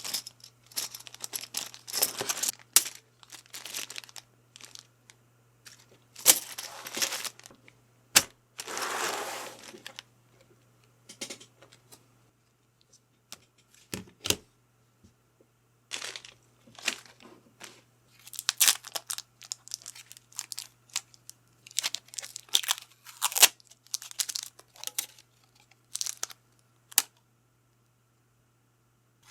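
Packaging being torn open and crinkled in irregular bursts, with small hard parts clicking and tapping, as keyboard kit parts are unpacked.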